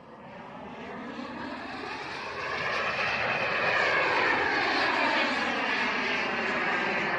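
Model jet's KingTech turbine rushing overhead in flight, growing louder as it approaches and then sweeping past with a shifting pitch.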